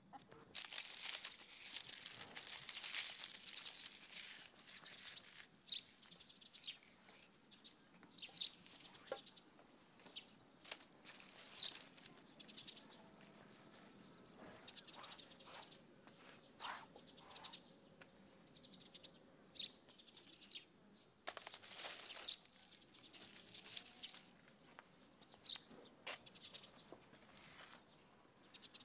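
Faint outdoor ambience: small birds chirping now and then, with bursts of rustling, strongest about a second in and again about two-thirds of the way through.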